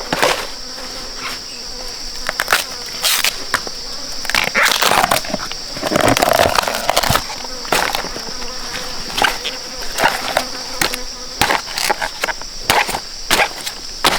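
Steady high-pitched drone of forest insects, with irregular knocks, clicks and a stretch of crunching over it.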